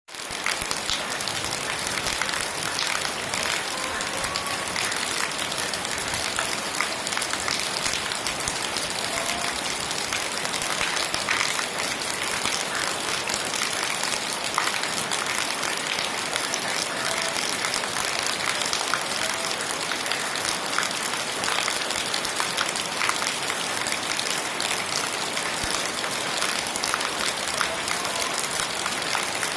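Heavy rain falling steadily, a dense even hiss made of countless small drop impacts, with a few faint short chirps now and then.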